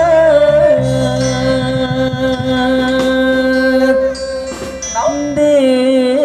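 Kecimol band music: a long held melody line that bends in pitch at the start and again near the end, over a sustained bass.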